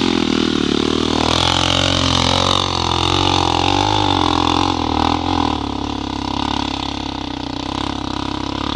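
Dirt bike engine pulling in first gear, its revs rising and falling. It eases to a lower, steadier note after about five seconds.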